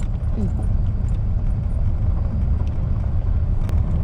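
Steady low rumble of a car driving, heard from inside the cabin, with road and wind noise coming in through an open window. A single sharp click sounds near the end.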